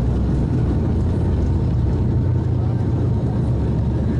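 Steady low drone of the ATR 72-600's twin Pratt & Whitney PW127M turboprop engines and propellers, heard inside the passenger cabin.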